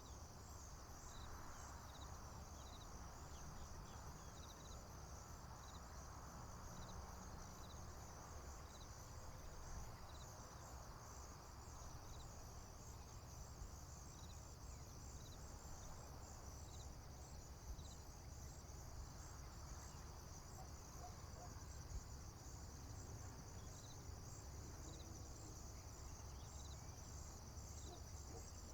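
Faint chorus of crickets and other field insects: a steady high trill with a fast pulsing chirr above it and a short high note repeating about every second and a half, over a low steady rumble.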